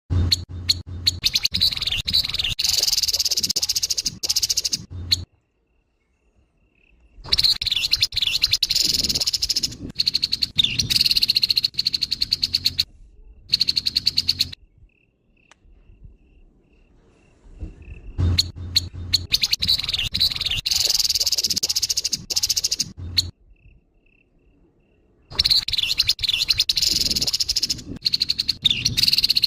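Grey-headed babbler giving harsh, rapid rattling calls in four bouts of about five seconds each, with short pauses between them.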